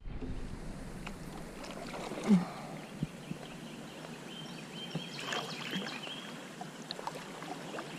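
Water lapping around a canoe, with scattered light knocks and clicks from gear against the hull and one short low bump about two seconds in.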